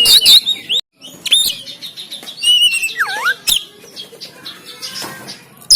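Oriental magpie-robin (kacer) singing a fast, varied, harsh song of chattering notes, whistles and sharp pitch glides, with a falling-then-rising swoop near the middle and a few sharp clicks. The song breaks off briefly about a second in.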